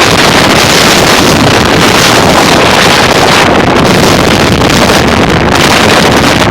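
Strong windstorm gusts of 40 to 60 mph buffeting the microphone: loud, steady wind noise with a deep rumble.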